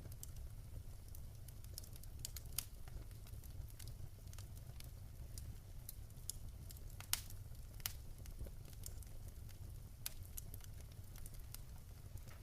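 Wood fire crackling in a fireplace: irregular sharp pops and snaps, a louder pop about seven seconds in, over a steady low rumble of the flames.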